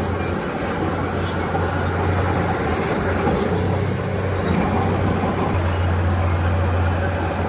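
Heavy diesel engine of earthmoving machinery running steadily with a deep, even hum. Faint ticks and clinks sound now and then above it.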